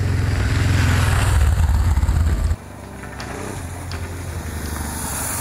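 Honda Transalp motorcycle's V-twin engine running while riding. Loud for the first half, then about two and a half seconds in it drops off suddenly to a quieter running sound.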